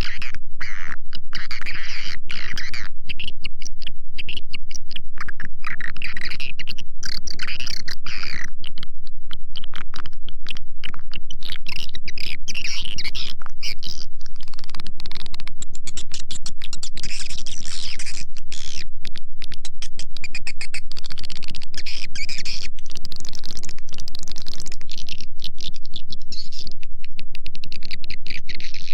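Swiftlet lure track: a dense chorus of edible-nest swiftlet chirps and twittering, quick high chirps and clicks packed together at an even loudness over a faint low hum. This is the call sound played from swiftlet houses to draw the birds in.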